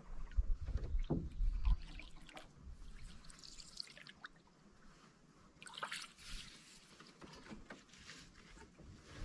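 Water trickling and dripping around a canoe as it is paddled, in short irregular splashes. There are a few low knocks in the first two seconds.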